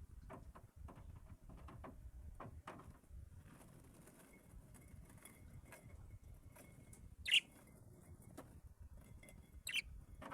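Small pet birds chirping, with two short, louder calls in the second half, among faint clicks and rustles.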